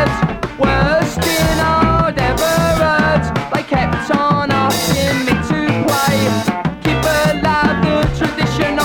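Post-punk rock band music: a drum kit keeping a steady beat under bass and wavering melodic lines, with no lyrics sung.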